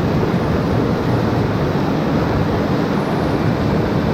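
Waterfall on a mountain river, the water pouring in a steady, loud rush that is heaviest in the low range.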